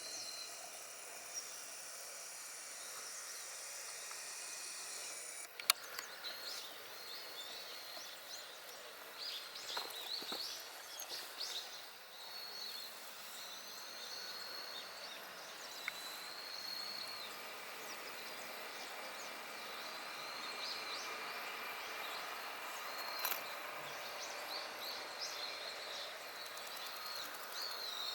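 Outdoor ambience with small birds giving short, high chirping calls again and again. A steady high insect buzz runs for the first five seconds or so, then cuts off, and a single sharp click follows just after.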